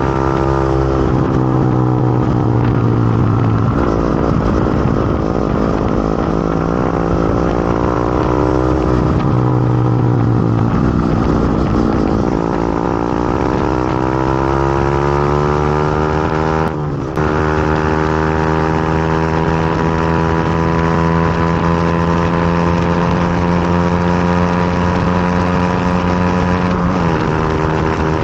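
Motorcycle engine running under way, its pitch falling and rising several times as it slows and speeds up. About two-thirds of the way through the sound cuts briefly, then it holds a steady higher pitch before dropping near the end.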